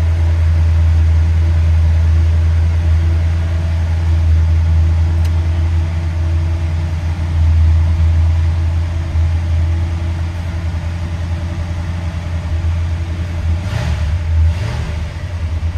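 1965 Chrysler 300L's 413 V8 idling steadily just after a cold start, the engine still cold and not yet warmed up. A couple of brief knocks come near the end.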